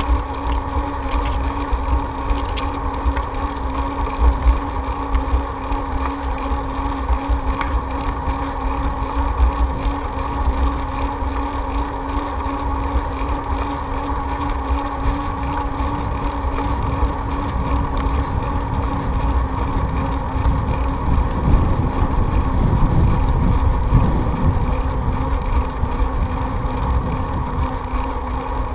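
Ride noise on a moving bicycle: wind rumbling on the microphone over a steady droning hum. The rumble grows louder and rougher about three-quarters of the way through.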